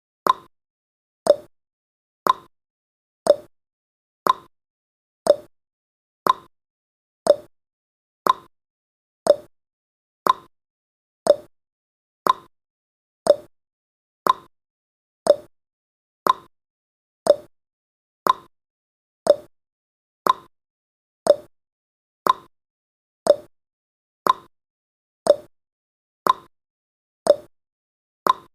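Countdown timer's clock-tick sound effect: a short, sharp click once a second, alternating between a lower and a higher click like a tick-tock.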